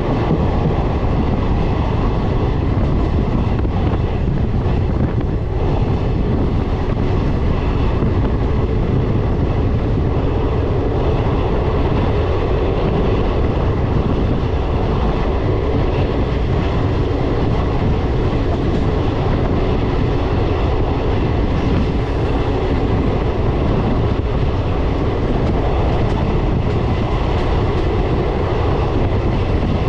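Passenger train running steadily along the track: a continuous rumble of coach wheels on the rails with a faint clickety-clack.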